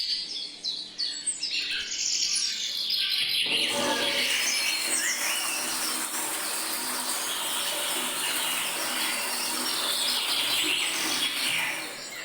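Several birds chirping and calling in quick, overlapping short notes. From about three seconds in, a steady hiss-like noise runs beneath them.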